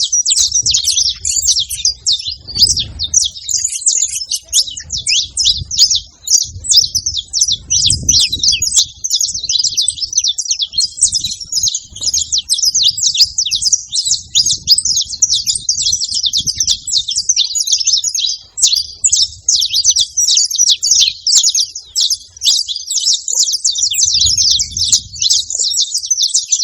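Saffron finches singing, a dense unbroken run of rapid high chirping notes, with a low rumble coming and going underneath.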